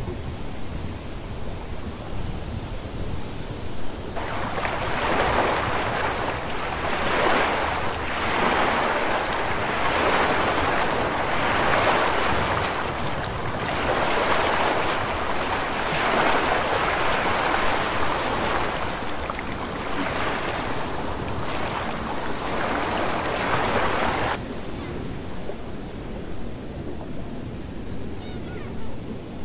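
Wind buffeting the microphone and the rush of water along a passenger ferry's wake on the open deck. A louder rushing stretch begins suddenly a few seconds in, swells and eases about every two seconds, and cuts off about five seconds before the end, leaving a steadier low rumble of wind and water.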